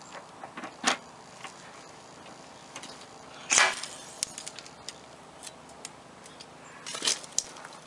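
A few sharp clicks and snaps from a paintless-dent-repair puller working a hot-glued tab on sheet metal: one just before a second in, a louder snap midway and two more near the end. The pulls do not move the dent.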